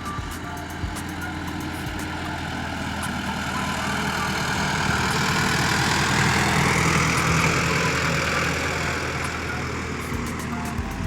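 Vehicle engine sound: a steady low hum under a rushing noise that swells to its loudest about halfway through and then fades away.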